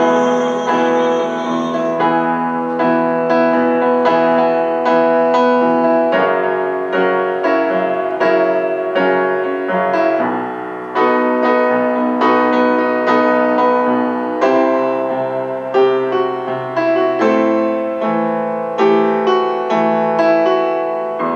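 Solo piano playing the closing instrumental outro of a ballad, a run of struck chords and melody notes, each ringing and decaying before the next.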